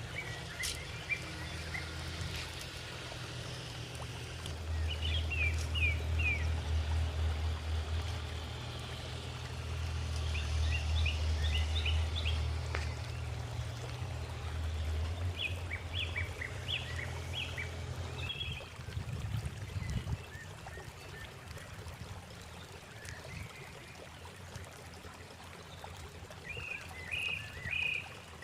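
A low, steady outdoor rumble that fades out about two-thirds of the way through, with short bursts of quick, high bird chirps every few seconds.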